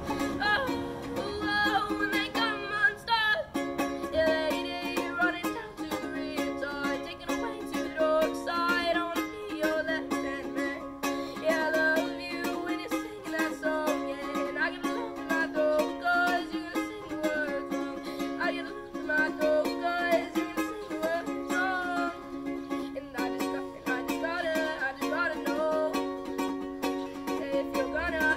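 Ukulele strummed steadily, with a voice singing over it.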